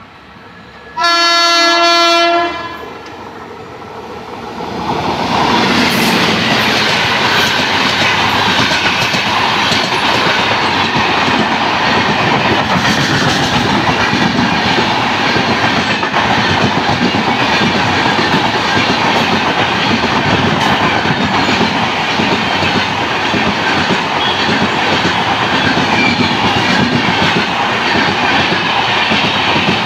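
Express passenger train sounding one long horn blast about a second in. It then approaches and runs through at about 80 km/h, its coaches passing close by with a loud, steady rush of wheels on rails.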